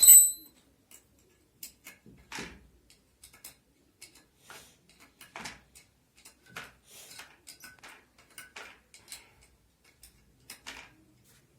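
Irregular clicks and knocks of metal tools and parts being handled, opening with a loud ringing metallic clink.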